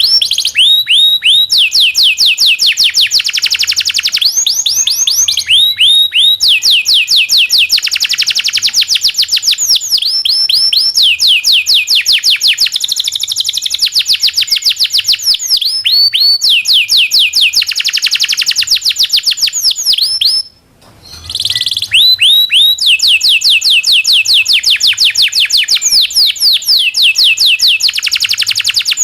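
Domestic canary (local Indonesian kenari) singing its long song of fast rolls: rapid trains of repeated high, down-sweeping notes that change from one run to the next. The song breaks off for about a second around two-thirds of the way through, then resumes.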